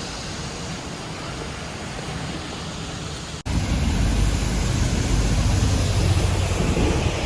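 Steady city street noise with traffic. About three and a half seconds in it cuts abruptly to a louder low rumble of wind buffeting the microphone.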